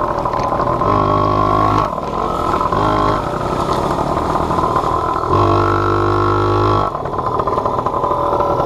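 Small off-road vehicle engine running as it is ridden, the throttle opened three times in bursts, the longest about a second and a half, and eased off between them.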